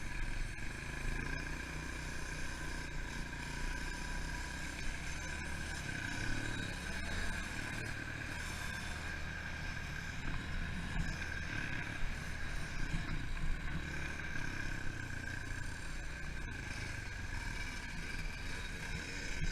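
Pit bike engine running steadily, with wind rumble and occasional knocks.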